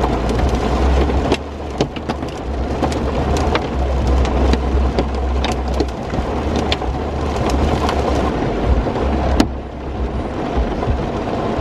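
Rain striking a vehicle, heard from inside it, with sharp drop impacts over the steady low rumble of the vehicle.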